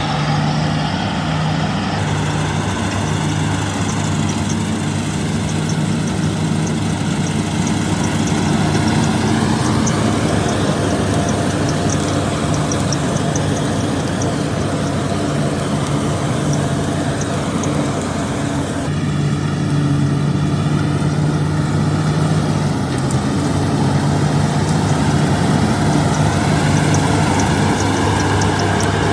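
Combine harvester running while cutting and threshing wheat: a steady diesel engine drone under the clatter of the working machinery. The sound shifts abruptly a few times.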